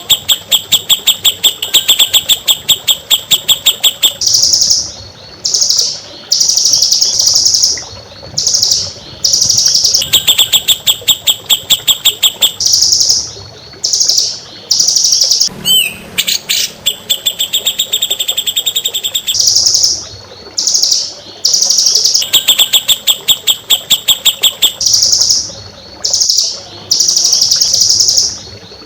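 Songbird song from a masteran tutor recording used to train caged songbirds. Fast trills of rapidly repeated notes alternate with phrases of higher, longer notes, the pattern recurring several times.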